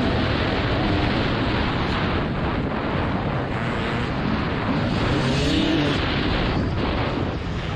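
TM 300 ES two-stroke motocross bike engine revving up and down under hard riding, its pitch rising and falling, with heavy wind buffeting on the microphone.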